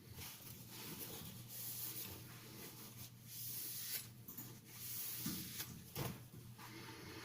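Steel knife blade rubbing on a wet silicon carbide whetstone, a faint gritty swish with each stroke, repeated several times.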